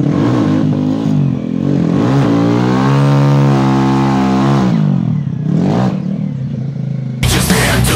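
An engine revving, its pitch rising and falling over a few seconds. About seven seconds in, loud heavy music cuts in suddenly.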